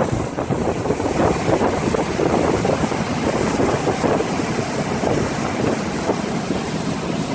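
150 Force outboard motor running as the bass boat moves across the water, mixed with a steady rush of wind buffeting the microphone and water against the hull.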